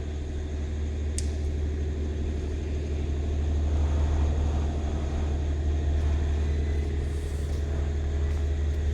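Steady low drone of a large diesel engine running, with a single faint click about a second in.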